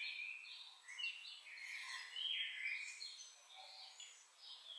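Small birds chirping, a run of short, high calls overlapping one another.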